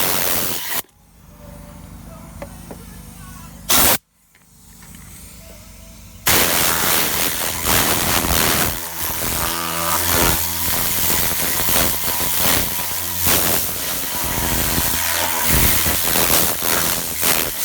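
Compressed air blowing through an agitating air cleaning gun: two short blasts in the first few seconds, then a steady loud hiss from about six seconds in.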